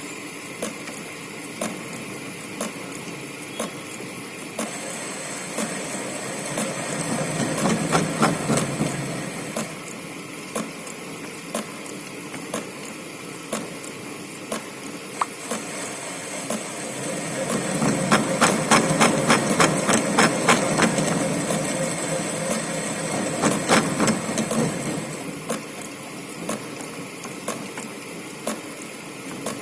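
A lathe runs with a steady hum and regular ticking while a 12 mm radius profile form tool is fed into the turning workpiece to cut an end radius. The cut gets louder and rougher twice: briefly about six seconds in, and longer from about seventeen to twenty-five seconds.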